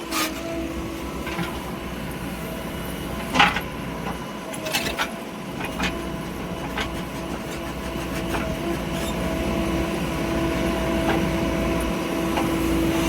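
A diesel engine of a heavy machine runs steadily at an even pitch and grows slightly louder toward the end. A few sharp metal knocks come in the first five seconds.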